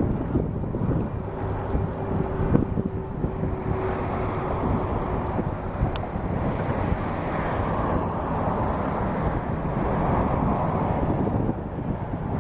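Wind rushing over the microphone of a moving bicycle, a steady noise that swells slightly in the second half.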